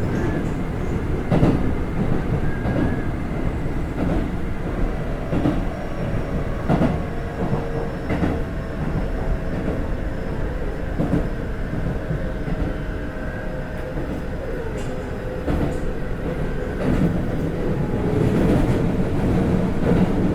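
Keikyu 1500 series electric train running between stations, heard from inside the lead car, with the wheels clicking irregularly over rail joints and a steady mechanical hum under it. The noise grows slightly louder near the end.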